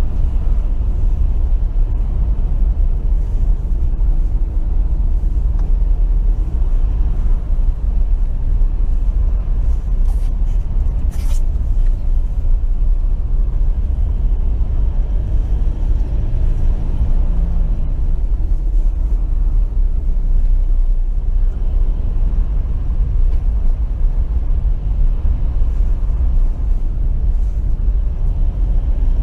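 Steady low rumble of a pickup truck driving along a snowy road, engine and tyre noise heard from the vehicle, with one brief high-pitched squeak about eleven seconds in.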